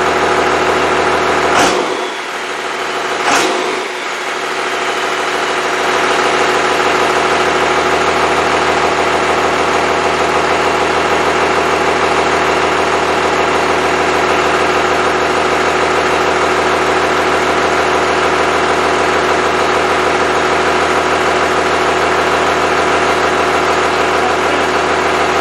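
Freshly rebuilt Cummins 5.9L 12-valve inline-six diesel idling steadily, with two sharp knocks about one and a half and three and a half seconds in.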